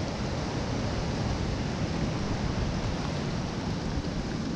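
Steady rushing of ocean surf on a rocky shore, mixed with wind on the microphone.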